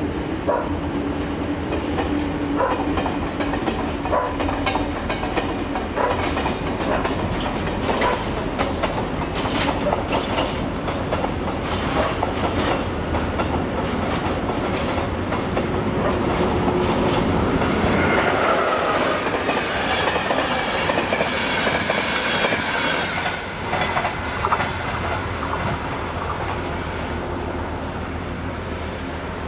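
Freight train of tank wagons rolling past, its wheels clattering rhythmically over the rail joints. The sound grows louder about two-thirds of the way through, then fades near the end as the train moves away.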